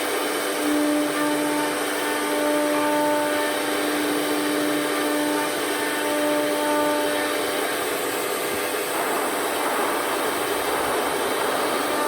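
Blue Elephant 1530 ATC CNC router running a cutting program: a steady spindle whine with overtones over a continuous hiss. The whine swells and eases over the first few seconds, then drops away for about three seconds near the end while the hiss broadens, and comes back just before the close.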